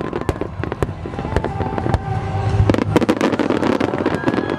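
Aerial firework shells bursting in rapid succession in a starmine display: many sharp bangs and crackles close together over a continuous low rumble.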